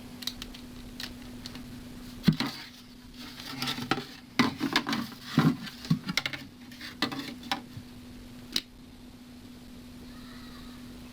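Small hard objects and tools being handled on a workbench, a scatter of clicks, taps and clattering knocks from about two seconds in until shortly before the end, over a steady low hum.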